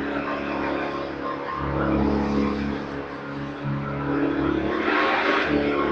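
Hoover RS upright vacuum cleaner running steadily while vacuuming up Christmas-tree debris. Its low hum drops out and comes back a couple of times, and there is a brief burst of louder noise about five seconds in.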